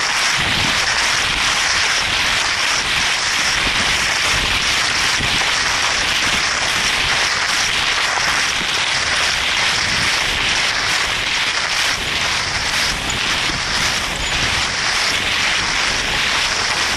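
Skis hissing steadily over snow while being towed along at speed, a continuous loud rush.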